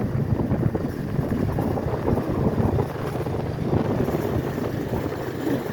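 Motorcycle on the move: the engine running under steady wind buffeting on the microphone.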